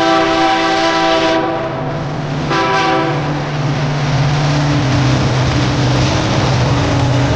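Diesel locomotive horn sounding a long multi-tone blast that cuts off about a second and a half in, then a short toot about a second later. After that comes the steady drone of the locomotive's diesel engine under loud train running noise.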